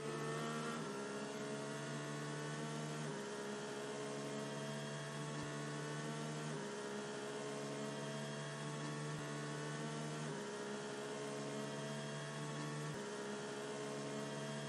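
Soft background synth music of held, droning chords that change every few seconds, each chord creeping slightly upward in pitch.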